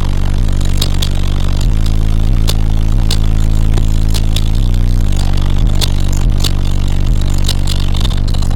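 Car audio subwoofers playing very loud bass notes that shift pitch every second or two, with sharp rattling clicks running through it.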